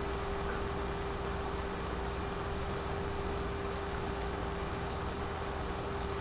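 Steady flight-deck noise of a Boeing 737 in flight: an even rush of airflow and engine noise with a constant hum underneath.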